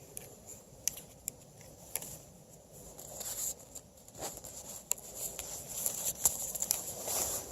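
Footsteps crunching in snow: irregular crunches and sharp clicks, getting busier and louder after about three seconds.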